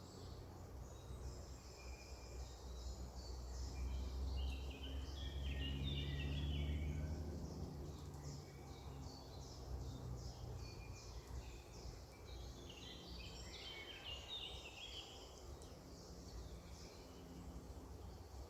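Several wild songbirds singing and chirping. Two tumbling, descending song phrases come about four and thirteen seconds in, over a low rumble that swells in the first half.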